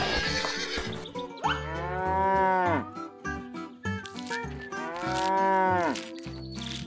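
Cow mooing twice: two long moos about three seconds apart, each rising and then falling in pitch.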